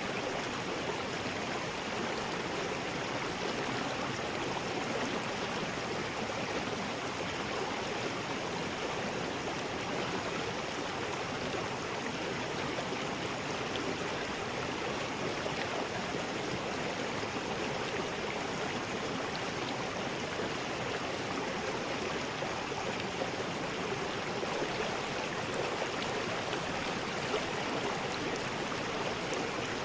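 River rapids: water rushing steadily over rocks, an even unbroken roar of moving water.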